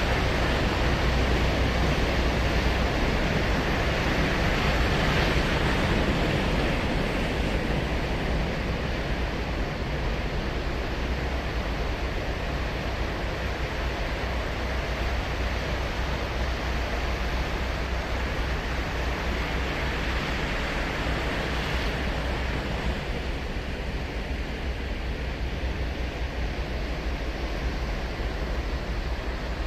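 Ocean surf breaking and washing up the beach: a steady hiss of waves that swells about five seconds in and again around twenty seconds, over a low rumble.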